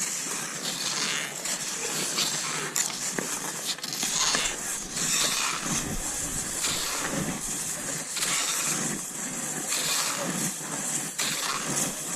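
Cross-country skis swishing and scraping over snow in a repeating rhythm of strides, about one stroke a second.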